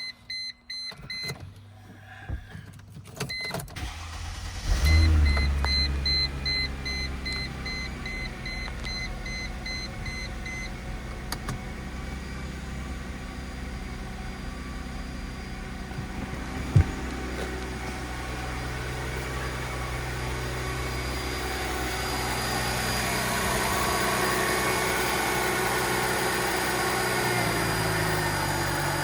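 2001 Mercedes SLK320's 3.2-litre V6 being started: a few clicks, then it catches about four seconds in with a loud burst and settles into a steady idle. An electronic warning chime beeps over it until about a third of the way through, and a single sharp click comes about halfway.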